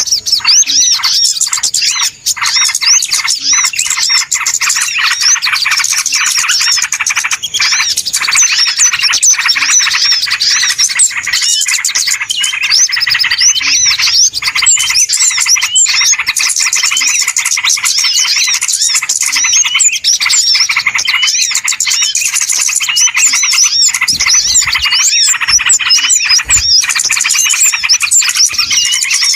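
Dense, loud chorus of many small birds chirping and twittering at once, a busy flock din used as a bird-trapping lure call.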